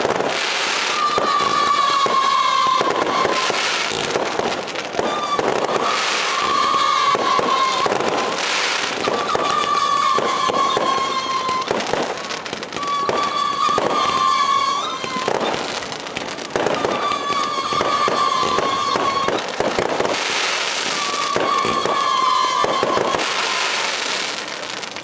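Aerial fireworks going off in quick succession: a dense run of bangs and crackling bursts. Over them are whistling effects, each a slightly falling whistle lasting a second or more, coming every two to three seconds.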